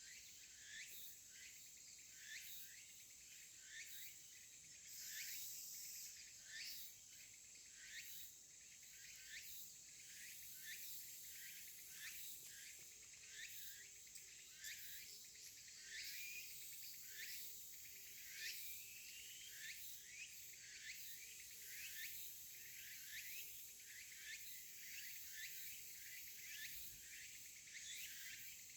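Faint outdoor insect chorus: a steady high-pitched drone, with short rising chirps repeating about twice a second.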